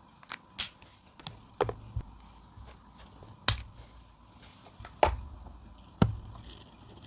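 Sharp clicks and taps of coloring tools being handled, about seven in all at uneven spacing, the loudest three in the second half.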